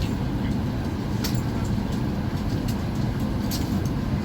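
Steady low rumble of an airliner cabin's air supply while the aircraft is parked at the gate, with a few scattered light clicks and knocks.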